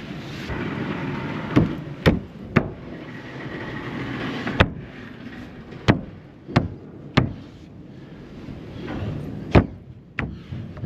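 About eight sharp knocks and bangs at irregular intervals, over a steady rumbling background.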